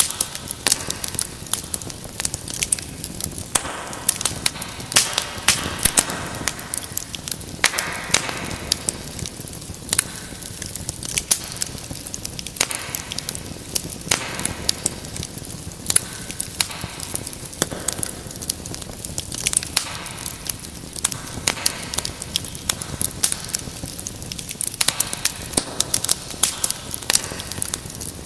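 Wood fire in a fireplace crackling steadily: many sharp, irregular pops and snaps over a soft hiss of burning.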